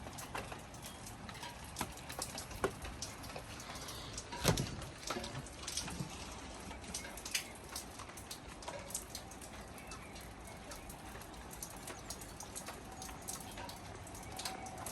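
Rain pattering and dripping, with irregular sharp drops striking a hard surface close by and one louder knock about four and a half seconds in.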